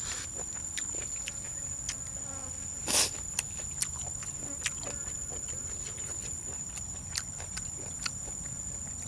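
Steady high-pitched chirring of crickets, with scattered sharp clicks and smacks of eating and one louder short burst about three seconds in.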